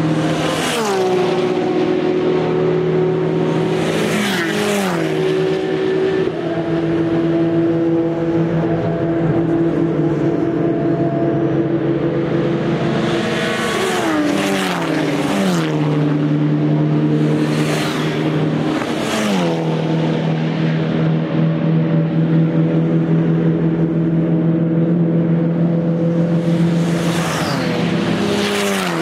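Endurance racing cars on open exhausts passing one after another at speed, about five passes, each engine note dropping in pitch as the car goes by.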